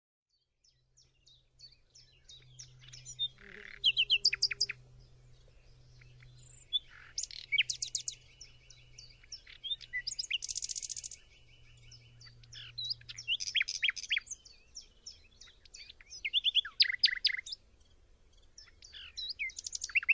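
Nightingale singing: a run of varied phrases made of rapid repeated notes and trills, with short pauses between them.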